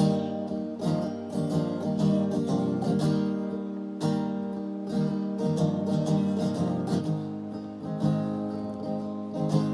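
Strummed acoustic guitar playing an instrumental passage between sung verses, with regular strokes over sustained chords.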